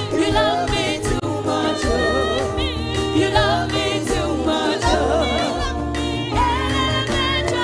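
Live gospel worship music: several voices singing with vibrato over a band with steady low bass notes and regular drum hits.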